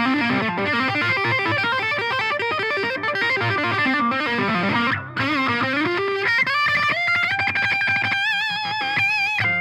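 Electric guitar through an Eagletone Biyang OTD 100 12AX7 tube distortion pedal playing a lead solo: a fast run of notes, then climbing about six seconds in to a long held note with vibrato that stops near the end.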